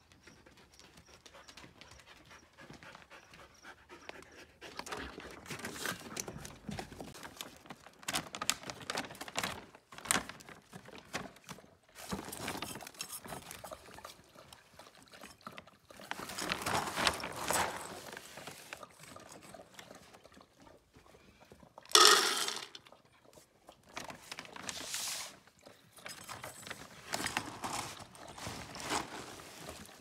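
Samoyed panting, with stretches of plastic dog-food bag crinkling and one loud, brief clatter about two-thirds of the way through.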